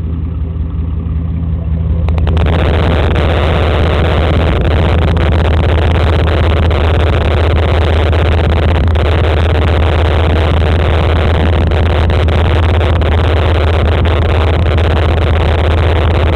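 1993 Chevrolet S-10 Blazer's 4.3-litre V6 running steadily through a dual straight-pipe exhaust that keeps the catalytic converter, a deep low drone. About two seconds in it grows fuller and a little louder.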